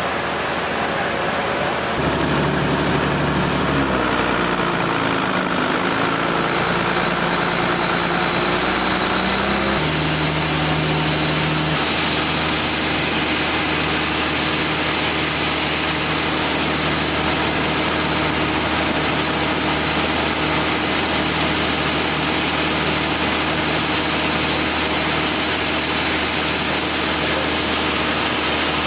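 Sawmill machinery running: a steady motor drone with a constant hum. The sound changes abruptly about two, ten and twelve seconds in, and its pitch dips and comes back up between about four and nine seconds in.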